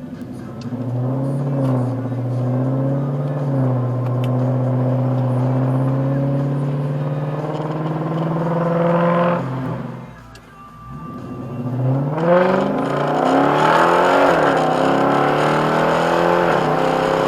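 2010 Lexus IS-F's 5.0-litre V8 through gutted headers and a muffler-delete exhaust, accelerating: its note climbs steadily for about nine seconds, falls away briefly, then climbs again louder, with a short dip partway through.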